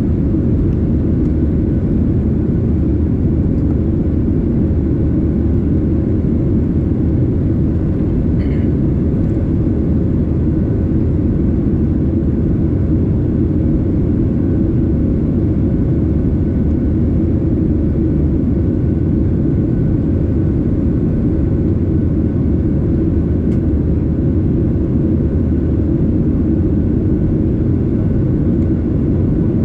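Boeing 737-800 jet engines and airflow, a loud steady low rumble with a faint steady hum on top that neither rises nor falls.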